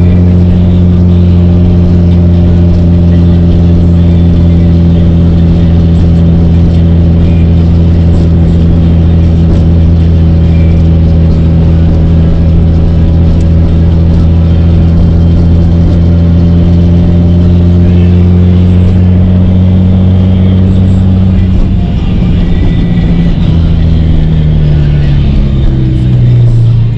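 Nissan 350Z's 3.5-litre V6 running loud at a steady cruise for about twenty seconds. Over the last few seconds the engine note wavers, then climbs in pitch.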